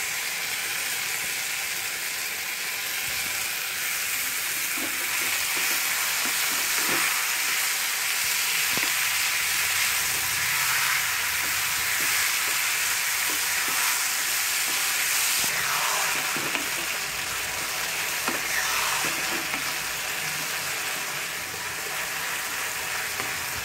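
Sliced mushrooms sizzling as they fry in sauce in a kadai, stirred and scraped with a spatula, with a few light knocks along the way.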